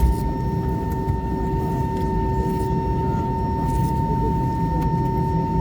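Steady drone inside an Airbus A320 cabin on the ground: a constant low rumble with a steady high whine over it.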